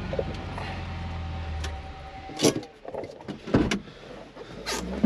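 Vehicle engine idling, then switched off about two seconds in, followed by a few sharp clunks and clicks as the driver's door is opened and the driver climbs out.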